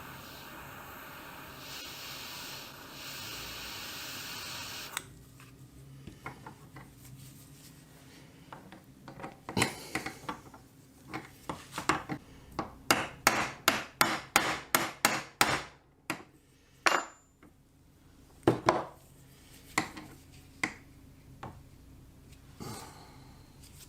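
A steady noise stops about five seconds in. It is followed by a run of sharp metal-on-metal taps, quickest in a burst of about three a second, then a few scattered taps near the end.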